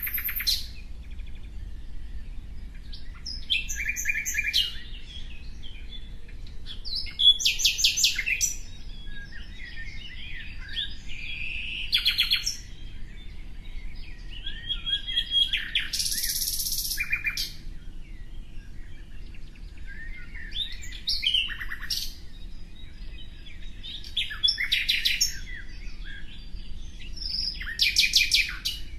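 Birds chirping and calling: bursts of high-pitched chirps and rapid trills come every few seconds, some reaching very high in pitch.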